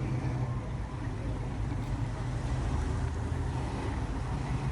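Car engine running at idle: a steady low rumble with no revving.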